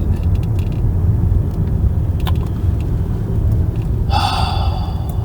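Steady low rumble of a taxi driving, heard inside the cab, with a short ringing tone of several steady pitches lasting under a second about four seconds in.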